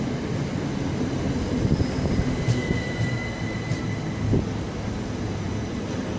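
Electric passenger train running along the platform with a steady low rumble of wheels on rails, and a thin high whine held for a couple of seconds in the middle.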